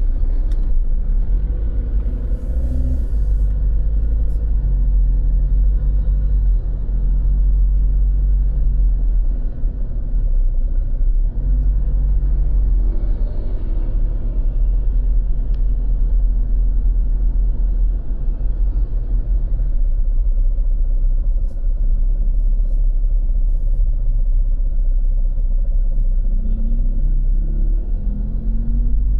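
Road traffic going by: a steady low rumble with engine hums that shift and change pitch as vehicles pass.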